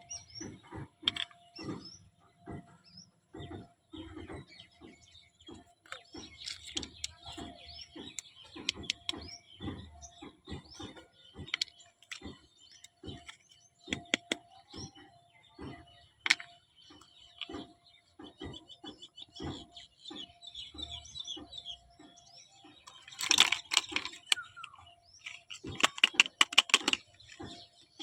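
A string of light clicks and taps from small toy kitchen pieces and their packaging being handled, with two denser bursts of crinkling near the end.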